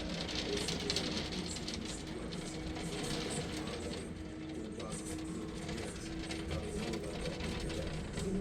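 Hail falling hard: a dense rattle of small hailstones clicking on hard surfaces, easing for a moment about four seconds in and then picking up again, over a low rumble and a faint steady hum.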